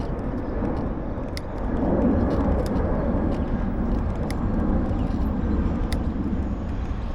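Steady wind and road noise from riding a bicycle along city streets, with passing traffic. A faint sharp click repeats about every second and a half.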